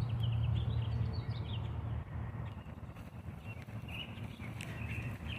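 Faint, scattered short chirps of small birds over outdoor background noise, with a steady low rumble that eases off about two seconds in.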